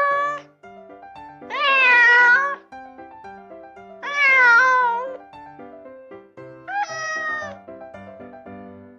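Domestic cat meowing, four drawn-out meows about two seconds apart, the first already under way, over light background music.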